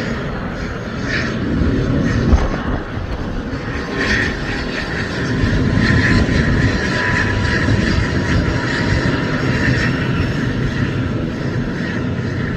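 An ATR twin-turboprop airliner's engines and propellers run through a landing pass as a loud, steady drone. A high whine strengthens about four seconds in and eases off near the end.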